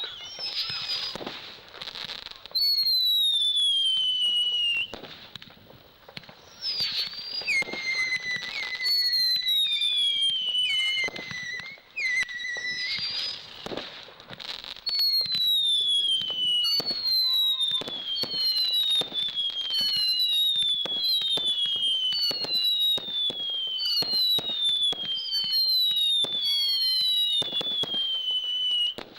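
Whistling fireworks going off in a display, one falling whistle after another, mixed with sharp pops and crackles. After about fifteen seconds the whistles come in a quick run, roughly one a second.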